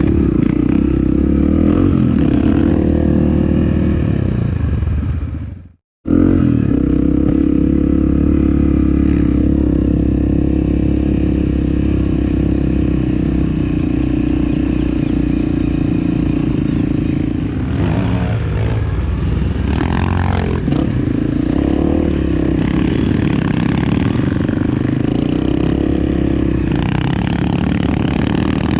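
Off-road motorcycle engine running steadily while riding, with clatter from the rough ground. About five seconds in the sound fades out to a brief silence, then the engine picks up again. The engine note dips and rises again around eighteen to twenty seconds in.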